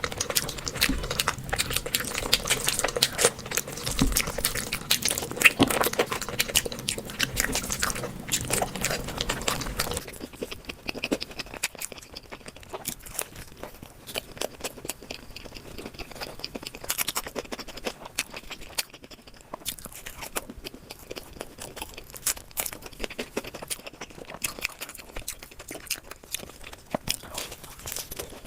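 Close-miked eating: a person chewing and smacking big mouthfuls of food, with dense wet clicking. About a third of the way in the sound drops suddenly to a quieter level of chewing.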